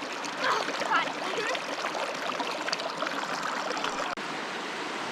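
River water rushing and trickling over rocks, a steady flowing sound with a couple of brief louder sounds in the first second.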